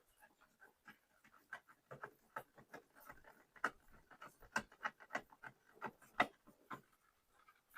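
Faint, irregular small clicks and taps of hand tools and plastic as the screws holding the washing machine's plastic clutch-and-bearing cover are undone.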